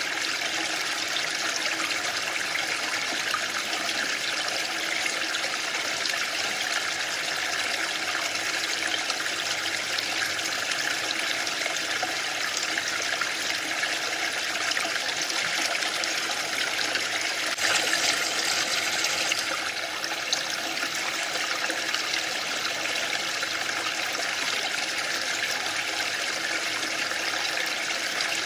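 Waterfall: water rushing and splashing in a steady, even hiss, swelling briefly brighter for about two seconds about two thirds of the way through.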